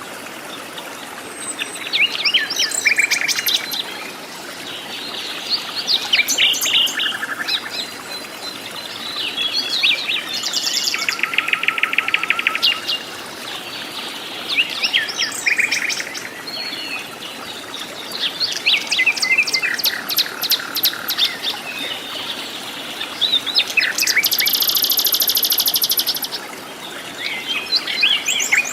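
Several wild forest birds singing and calling in turn: short whistled phrases, rapid trills and chirps. Near the end a steady buzzy trill lasts about two seconds.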